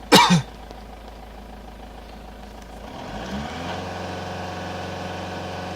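A sharp clunk right at the start, then an Opel Astra G diesel engine running. About three seconds in, it speeds up and settles at a higher, louder steady speed.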